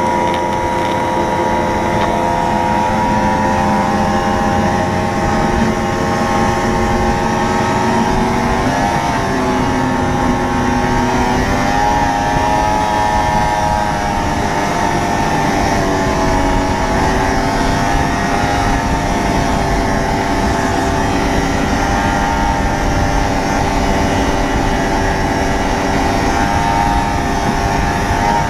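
1980 Ski-Doo Blizzard 7500 snowmobile's two-stroke engine running steadily under way, its pitch dipping and climbing back a couple of times about a third of the way in.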